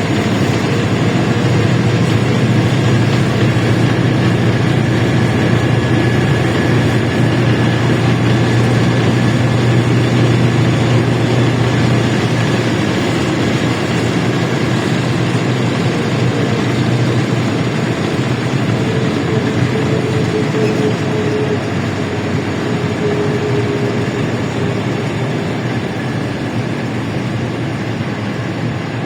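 LiAZ-677M city bus under way, heard from inside the cabin: its ZIL V8 petrol engine running with a steady low drone over road and body noise. About halfway through it eases off a little, and a faint whine slides down in pitch.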